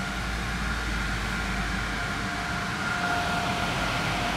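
Steady low rumble of a car idling, heard from inside the cabin, with a faint steady whine over it that grows a little louder about three seconds in.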